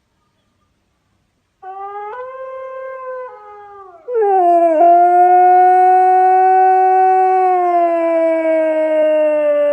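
A dog howling. A quieter howl starts about a second and a half in and steps up in pitch, then from about four seconds in a loud, long, steady howl is held.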